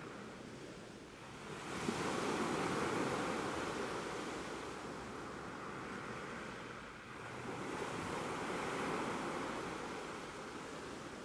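Ocean waves washing onto shore: two swells of surf noise, one about two seconds in and another about seven seconds in, each rising quickly and then slowly ebbing.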